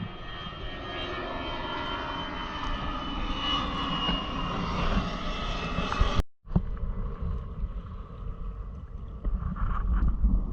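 A passing motor's steady drone, its tones sliding slowly down in pitch. About six seconds in it cuts off abruptly, and wind buffeting the microphone takes over.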